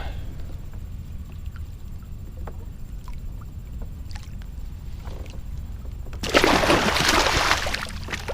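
Low rumble of wind and water around the kayak, then about six seconds in a loud burst of splashing lasting about two seconds, as the hooked blue catfish thrashes at the surface.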